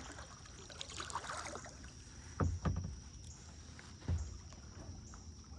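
Kayak paddling on a river: paddle strokes splashing and dripping in the water, with a few dull low knocks about two and a half and four seconds in.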